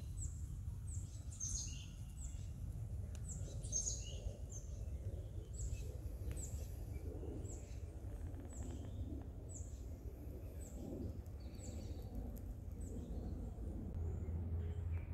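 Songbird calling in woodland: a long series of short, high chirps, each sliding down in pitch, repeated roughly once or twice a second, over a steady low rumble.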